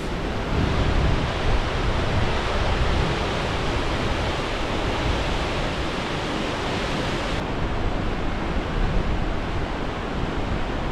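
Stanley Ghyll Force, a 60 ft waterfall, heard as a steady rush of falling water. There is extra low rumble in the first few seconds, and the top of the hiss dulls slightly about seven seconds in.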